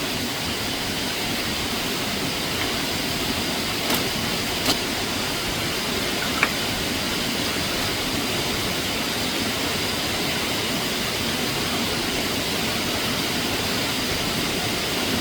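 Steady rushing of water, even and unbroken, with a few faint clicks about four, five and six and a half seconds in.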